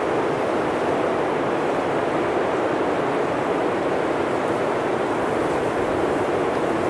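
Blizzard wind blowing through a forest: a steady, even rush with no gusts, lulls or distinct events.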